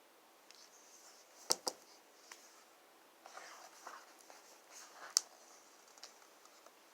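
Faint paper rustling and a few sharp clicks as a picture book is handled and its page turned.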